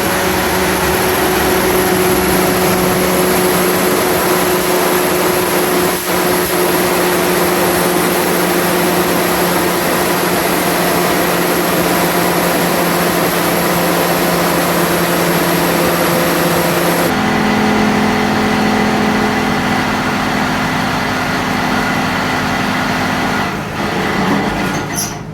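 Pump engine running steadily, then dropping to a lower speed about two-thirds of the way in and dying away near the end: a remotely triggered slow shutdown, the startup ramp run in reverse.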